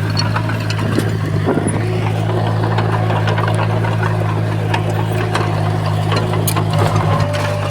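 Komatsu bulldozer's diesel engine running with a steady low drone, with scattered metallic clanks and clicks over it.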